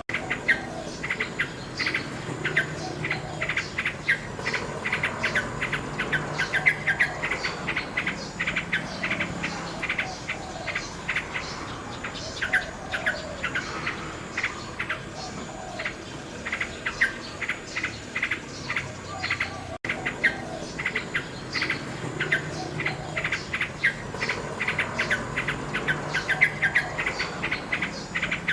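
Nightingale singing phrases of rapid repeated notes and trills, with insects chirping steadily behind. A split-second gap breaks the sound about twenty seconds in.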